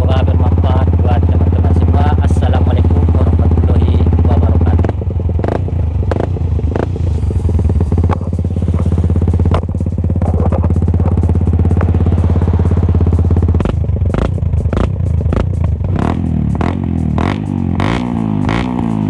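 Yamaha Vixion's single-cylinder engine running through its hollowed-out muffler, giving a deep, even exhaust beat. The exhaust gets quieter about five seconds in, and near the end the pitch starts to shift up and down.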